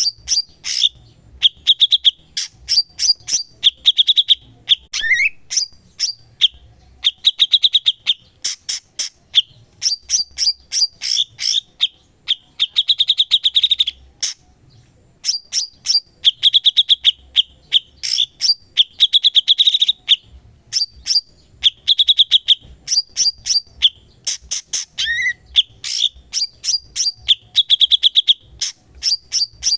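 A cucak cungkok singing in full, prolific song: bursts of rapid, sharp chirps and fast trills that repeat with short pauses between them.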